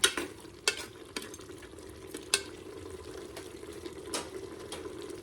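Pork frying in a pan as it is stirred: a utensil knocks against the pan about five times, sharply, over a steady frying sound.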